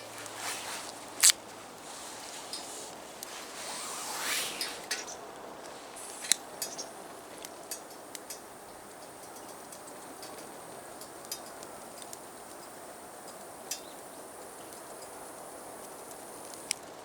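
Light handling noises: scattered sharp clicks and small scrapes, the loudest a single click about a second in, with a brief rustling swell around four seconds. A faint steady high-pitched whine runs from about six seconds to near the end.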